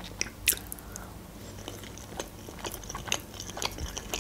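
Close-miked chewing of a soft, cheesy lavash casserole, full of small wet mouth clicks and smacks, with a louder click about half a second in.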